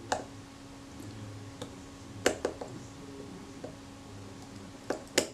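Scattered light clicks and taps of a small screwdriver and a tiny screw against a camera shutter's metal case as the screw is put in, over a faint steady hum.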